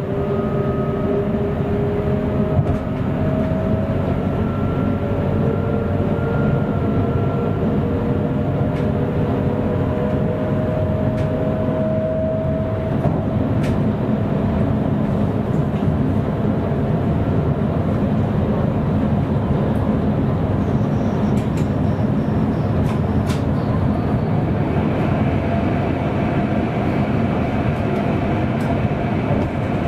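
Electric Sprinter passenger train running, heard from the driver's cab: a steady rumble of wheels on track with a motor whine that slowly rises in pitch over the first dozen seconds, then fades.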